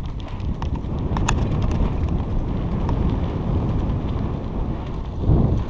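Wind rumbling on the microphone of a moving bicycle, with scattered light ticks and rattles from the bike on the trail. A louder gust swells briefly near the end.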